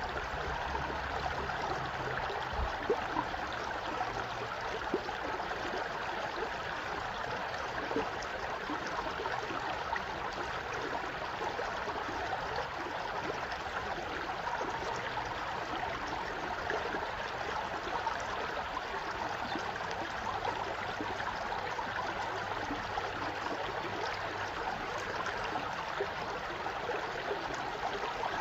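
Running stream water, a steady even rush with a few small clicks.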